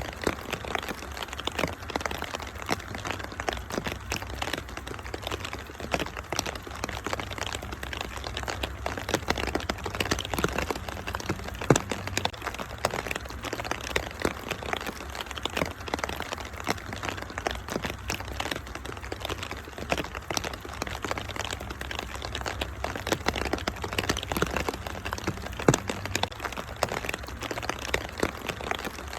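Wood fire crackling and popping steadily over a constant hiss of rain, with two sharper pops, about 12 and 26 seconds in.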